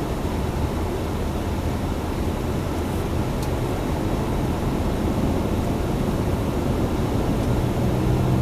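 Steady highway road and tyre noise heard from inside a moving car. Near the end, a vehicle engine note starts to grow louder.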